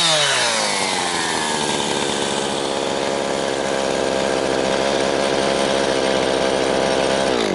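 Jonsered 2156 two-stroke chainsaw, with its Walbro HDA199 carburettor freshly rebuilt, coming down from high revs and settling into a steady, slightly fast idle. Right at the end the engine is shut off and dies away.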